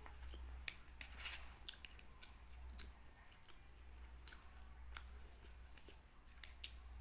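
Close-up chewing of rice and fried chicken, with many small irregular mouth clicks and squishes. A steady low hum runs underneath.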